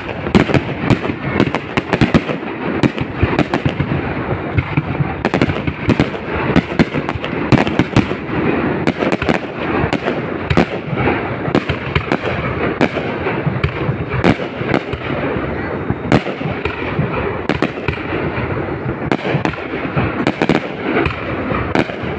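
Fireworks display: a continuous barrage of shell bursts, with many sharp bangs a second over a steady crackling rumble.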